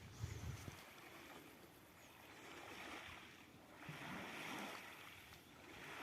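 Sea waves washing against the shore, a faint hiss of surf that swells and fades every second or two, with a brief low rumble at the start.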